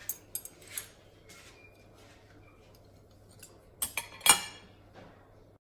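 Utensils clinking against dishes: a few light clicks in the first second, then a sharper cluster of three clinks about four seconds in, the last and loudest with a brief ring.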